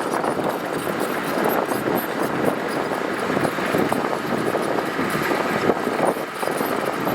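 Heavy earthmoving machinery at work: a diesel engine running steadily under an irregular, rough clatter.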